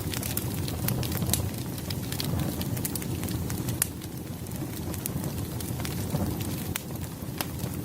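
Burning firewood crackling: a steady low rumble of flames with frequent sharp, irregular pops and crackles.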